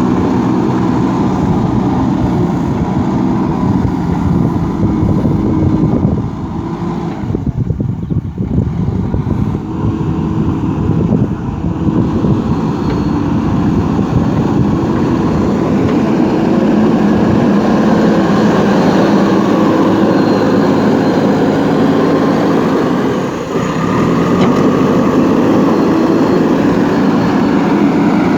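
JCB backhoe loader's diesel engine running steadily under working load. It eases off for several seconds about six seconds in and dips briefly again later on.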